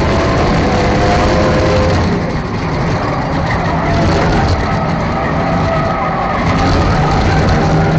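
A 4/6-cylinder enduro race car's engine runs loudly and steadily, its pitch drifting slowly up and down, with a brief easing about two and a half seconds in.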